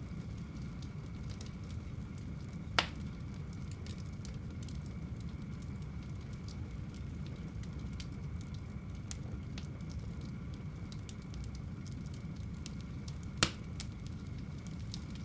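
Fire burning in a home fireplace: a steady low rumble of flames with scattered light crackles, and two sharp loud pops, one about three seconds in and one near the end.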